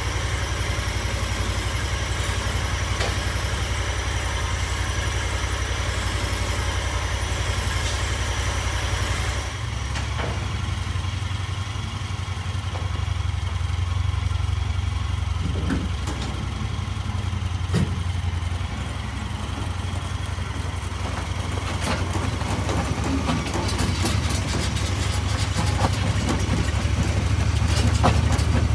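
A vehicle engine running at idle, a steady low drone that shifts in tone about ten seconds in.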